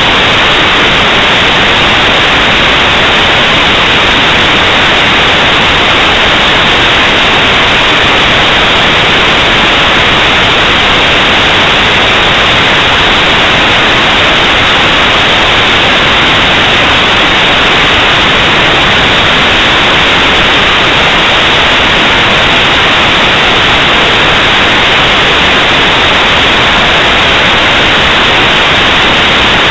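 Loud, steady static hiss, even and unchanging, with no clicks, tones or voices in it.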